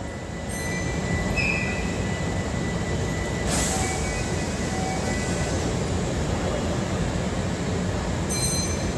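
Kintetsu limited express electric train rolling slowly into a terminal platform: a steady rumble of wheels and running gear, with a few brief high squeals and a short hiss about three and a half seconds in.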